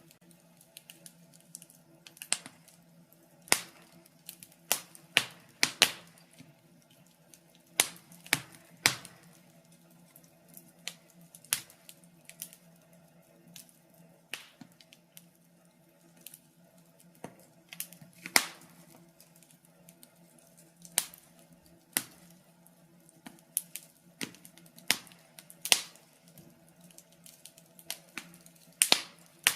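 Fireplace wood fire crackling: sharp irregular pops and snaps, about one a second, over a faint steady low hum.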